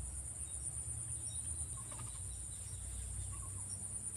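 Steady high-pitched insect chorus, a cricket-like trill, over a low rumble, with a few faint short chirps about two seconds in and again past three seconds.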